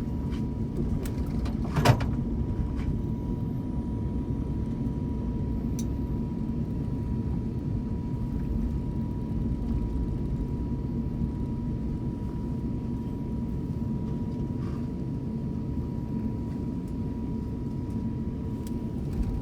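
Cabin noise of an Airbus A350-900 on the ground after landing: a steady low rumble with a faint steady tone, heard from inside the cabin. There is one sharp knock about two seconds in.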